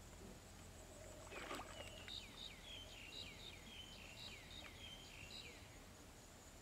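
Faint bird calling: a quick run of short chirps, each falling in pitch, about three a second for several seconds. A brief faint rustle comes just before, about a second and a half in.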